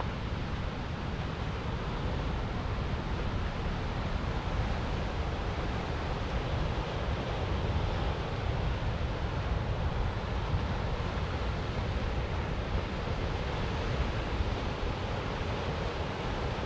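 Ocean surf breaking on a rocky shore: a steady, even wash of noise with no single crash standing out, over a low wind rumble on the microphone.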